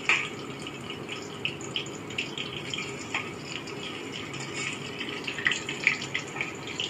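Spice- and gram-flour-coated brinjal slices shallow-frying in oil in a metal kadai: steady sizzling with scattered crackles, and a flat metal spatula knocking and scraping on the pan as the slices are turned, sharpest just at the start.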